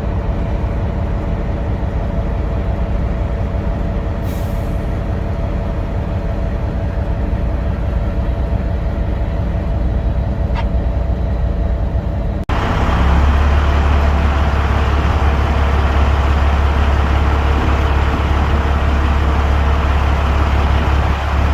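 Peterbilt semi truck's diesel engine running steadily, with a short hiss of air about four seconds in, typical of the air brakes. About twelve seconds in it switches abruptly to a louder, deeper engine rumble.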